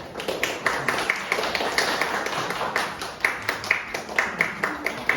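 Audience applauding, a dense patter of hand claps with a few louder, sharper claps standing out.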